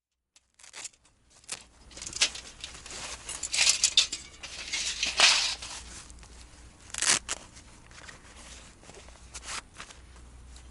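Irregular crinkling and rustling, loudest in the middle, then fading to a few faint scattered clicks.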